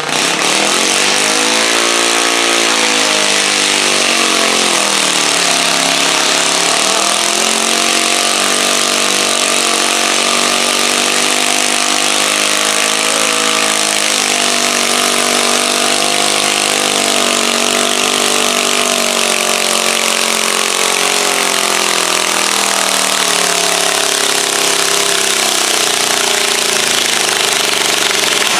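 Garden tractor engine running hard under load on a pull, its pitch climbing in the first two seconds, dipping and recovering around six seconds in, wavering, then sagging near the end.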